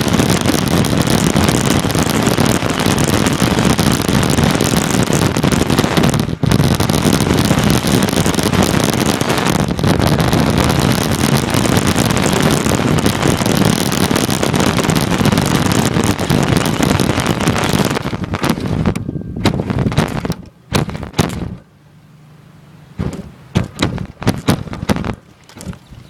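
Radio-controlled car driving with the recording iPod taped to its body: a loud, dense rumble and rattle from the chassis and wheels, mixed with wind on the microphone. About 20 seconds in it drops away, and only scattered sharp knocks and bumps follow.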